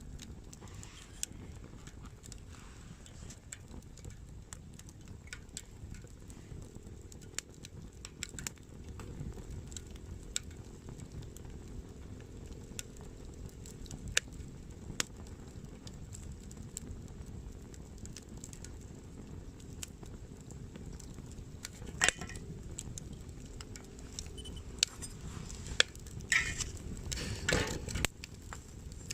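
Small wood fire crackling in a can stove, with scattered sharp pops over a low steady rush, and a few louder clacks near the end.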